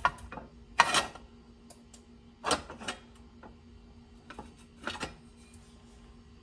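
Irregular metallic clicks and knocks of a metal trim piece and tools being handled on a workbench, about half a dozen spread across the time, the loudest about a second in, over a steady low hum.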